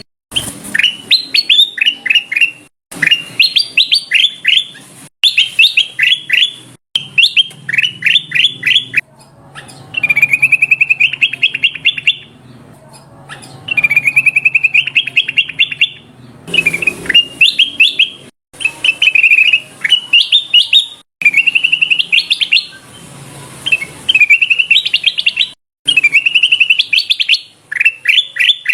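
Recorded song of the kutilang emas, a bulbul, played as a lure call. It sings repeated short phrases of fast, downslurred chirping notes, and several longer rapid rolling trills.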